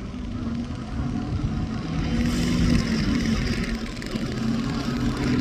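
Diesel engine of a Mack front-loader garbage truck running on the street. It grows louder about two seconds in, with a rising hiss of tyre and road noise as the truck comes closer.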